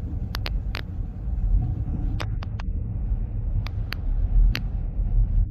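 Road vehicle's low, steady rumble as picked up by a dashcam, with about nine sharp clicks in small irregular groups.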